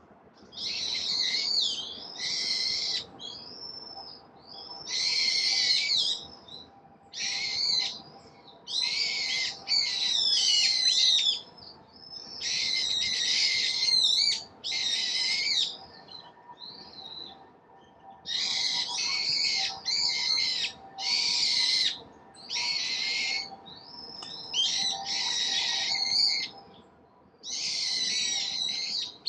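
Songbirds singing: a long run of short, high, busy song phrases, each a second or two long, one after another with short gaps between them.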